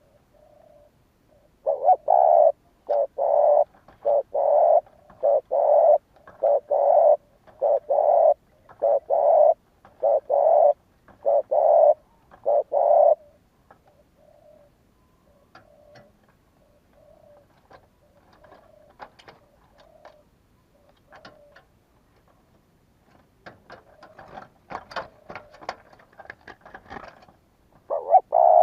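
Spotted dove cooing: a run of about a dozen loud, low coos in quick phrases over some ten seconds, used as a decoy call for wild doves. Then come faint soft notes and clicks, a burst of scratchy rustling around the last few seconds, and loud coos again at the very end.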